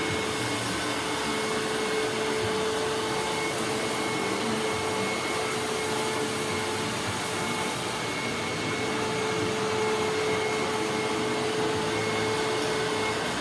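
Vacuum cleaner running steadily at full speed: a constant rush of air with a steady motor whine.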